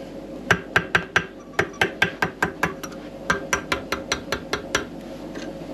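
A run of about twenty light, sharp metal taps, four to five a second, in three short bursts: a tool tapping the retaining clip into the top of a motorcycle fork slider to seat it above the fork seal.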